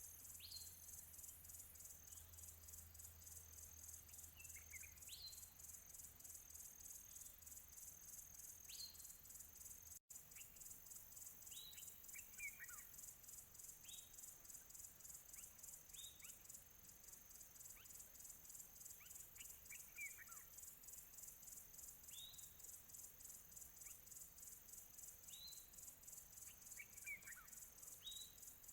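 Songbird chirping, short quick calls that slide down in pitch, one every second or two. Under them runs a steady, high, fast-pulsing insect trill like crickets. The whole sound cuts out for an instant about ten seconds in.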